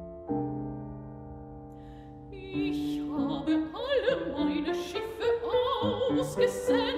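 Soprano and piano performing an art song: a piano chord rings out, then about two and a half seconds in the soprano starts singing with a wide vibrato over the piano accompaniment.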